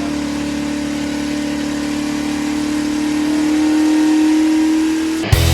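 Race truck engine held at steady high revs, running slightly harder over the last couple of seconds before it cuts off suddenly.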